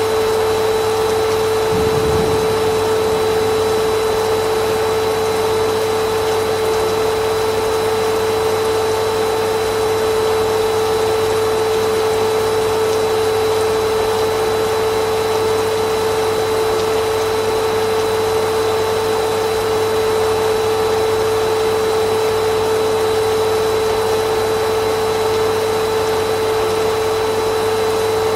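Vacuum cleaner motor running steadily, a constant whine with a strong hum over an even rush of air.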